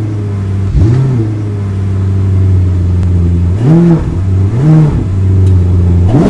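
Car engine idling with quick throttle blips: the pitch jumps up and drops back about a second in, twice more a little past halfway, and again at the end.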